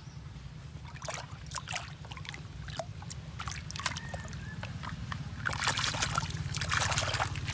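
Water sloshing and trickling as a small plastic toy is shaken and rinsed clean, with scattered splashes that grow busier near the end.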